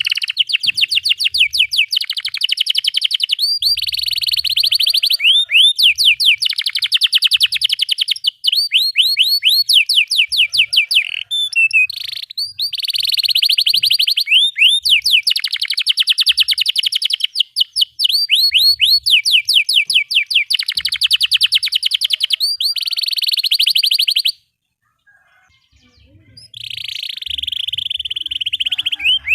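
Domestic canary singing a long, vigorous song of fast trills and rolled notes, phrase after phrase, with a short break near the end.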